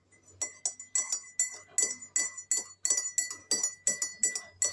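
A small metal bell jingling over and over, about four strikes a second, ringing on between strikes: a budgie's cage bell toy being knocked about as the bird plays.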